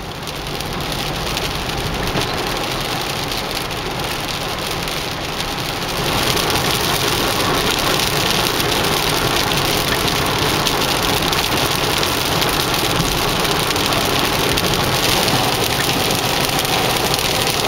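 Heavy rain falling on a moving car's roof and windshield, mixed with the hiss of tyres on the wet road, heard from inside the car. The steady noise grows louder about six seconds in.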